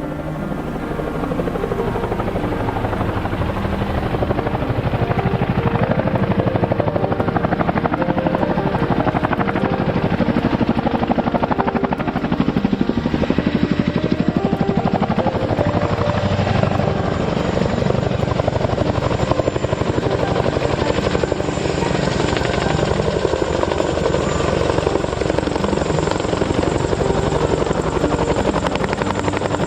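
Boeing CH-47 Chinook tandem-rotor helicopter close by, its rotors beating in a fast, steady chop, growing louder over the first few seconds and then holding steady, with a thin high whine in the second half.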